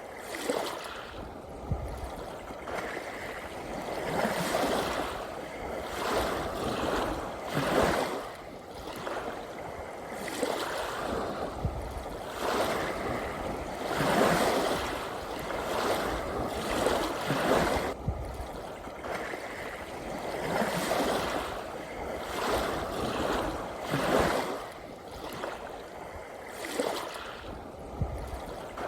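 Sea waves washing in, the surf swelling and falling away every two to three seconds with no pause between surges.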